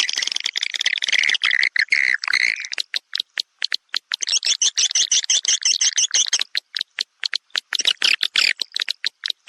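Swiftlet lure call recording: edible-nest swiftlets twittering in rapid, dry, high chirps. Dense runs of chirping alternate with sparser strings of separate clicks.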